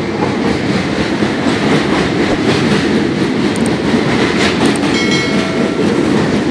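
Passenger train running over a steel truss railway bridge, heard from the moving coach: a steady, loud rumble and clatter of wheels on the rails.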